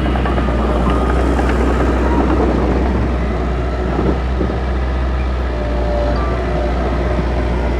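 Heavy earthmoving machinery's diesel engine running steadily with a deep, constant rumble, with a brief knock about four seconds in.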